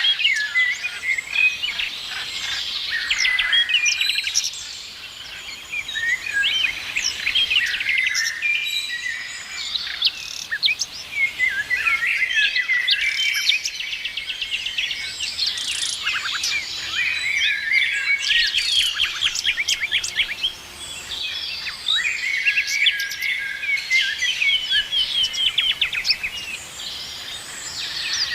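Several small birds chirping and trilling at once, in quick overlapping short notes and rapid trills, with brief lulls about five seconds in and again around twenty seconds in.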